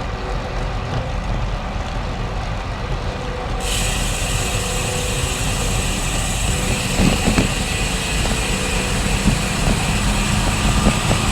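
Wind and road noise on a GoPro while riding a road bike, with motor traffic on the road; a hiss becomes brighter suddenly a few seconds in and stays.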